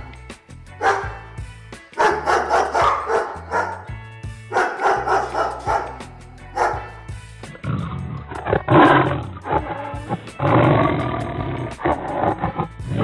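Short animal calls repeated every second or two, then from about eight seconds in a big cat roaring in long, rough bursts, over background music with a steady bass.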